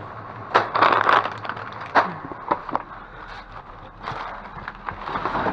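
Rummaging through dumpster trash: rustling and crinkling of packaging as items are shifted, with a few sharp knocks and clatters.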